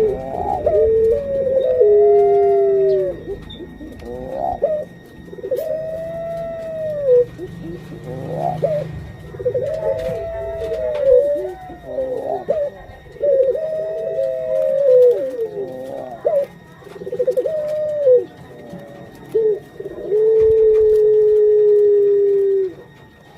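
Puter pelung dove (a domestic Barbary dove breed) cooing: a run of arched, rising-and-falling coos about every two seconds, ending in one longer, flatter drawn-out coo near the end.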